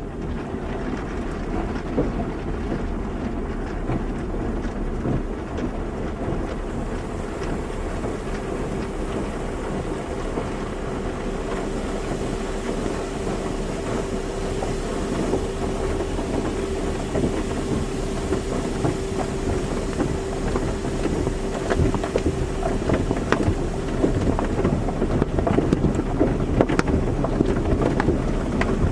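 Car wash running: a steady rush of spraying water and machinery, with a steady hum through the middle stretch and sharper spattering ticks growing louder near the end.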